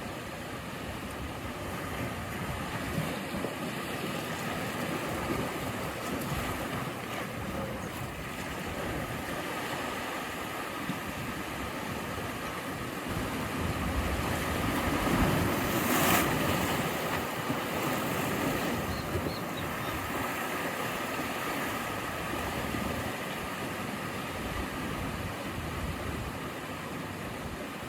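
Ocean surf: waves washing steadily against the shore, with one wave breaking louder about halfway through.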